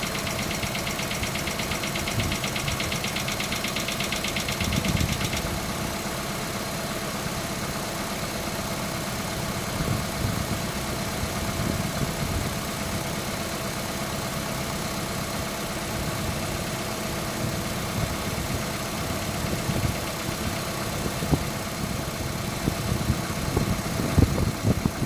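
Hyundai Accent MC engine idling while warming up, with a distinct rapid knock that sounds like valve tapping but that service stations put down to the camshaft timing chain. The fast, even ticking is plain at first and stops about five seconds in, leaving the engine idling.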